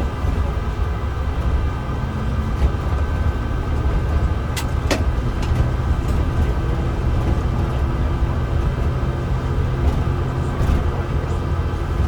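Mercedes-Benz O307 city bus heard from inside the cabin while driving: a steady engine and road rumble, with a couple of sharp rattles or clicks about five seconds in.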